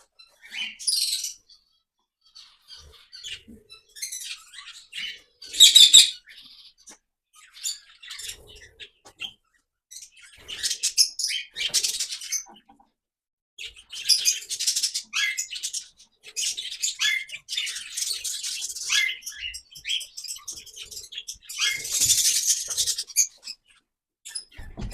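A flock of small parrots chirping and chattering in an aviary, in irregular bursts of high calls. The calls are loudest about six seconds in and again near the end.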